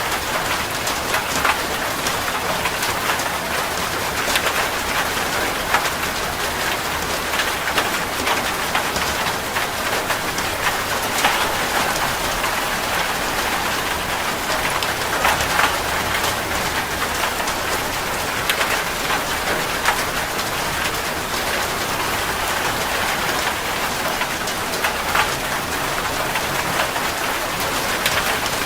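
Heavy rain falling on a metal roof: a steady hiss dotted with many sharp drop strikes.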